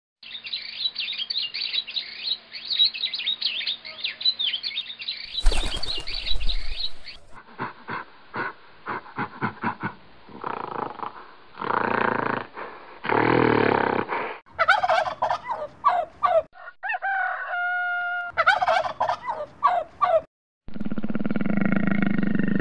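A string of different animal calls, one after another. First comes about five seconds of rapid, high bird chatter from a flock. Then a run of short clicks and low pulsed calls, then loud pitched warbling calls, and a low steady growl near the end.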